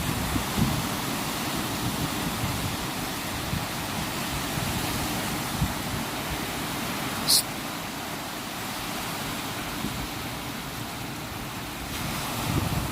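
Steady rush of ocean surf, with one brief, sharp, high-pitched sound about seven seconds in.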